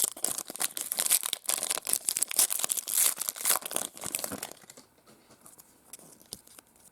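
Plastic trading-card pack wrapper being torn open and crinkled, a dense crackling rustle for about four and a half seconds, then only faint scattered rustles.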